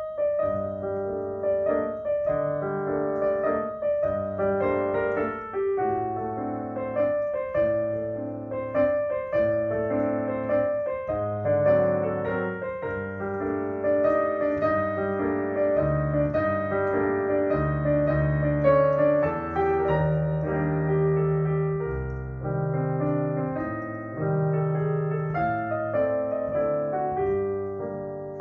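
Piano playing a piece with a melody over bass notes and chords.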